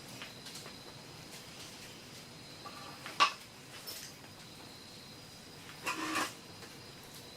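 A sharp clink about three seconds in and a short rattling clatter near six seconds, hard objects knocking together, over a faint steady high-pitched insect drone.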